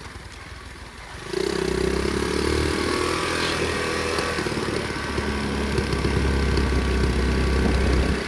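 Flywing pit bike's small single-cylinder engine. It is faint at first, gets suddenly much louder about a second in, then runs at a steady speed.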